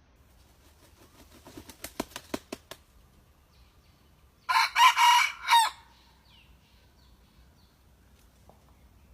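A decoy rooster of the red junglefowl kind, still learning to crow, beats its wings in a quick run of sharp claps. About two seconds later it gives one short crow of a few clipped notes.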